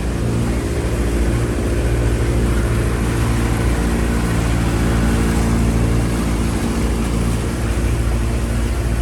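Motorboat engine running steadily under way, with wind and water rushing past.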